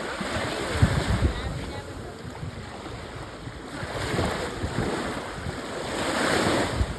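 Wind buffeting the microphone in low gusts over a steady rush of wind and water, swelling twice, around four and six seconds in.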